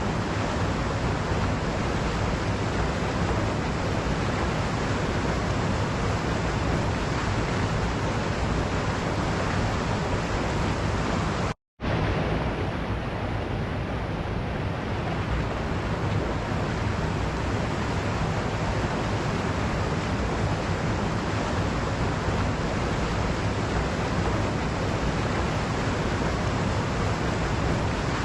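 Waterfall rushing steadily, a dense even roar of falling water. The sound cuts out completely for a split second about twelve seconds in, then resumes.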